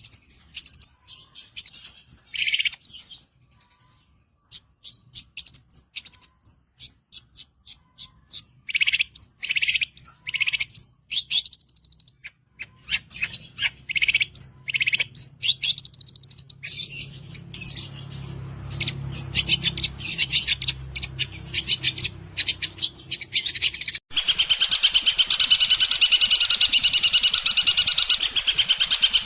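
Long-tailed shrike (cendet) singing a fast, chattering song of short, sharp high notes, with a brief lull about four seconds in. Near the end it switches abruptly to a dense, unbroken rapid trill.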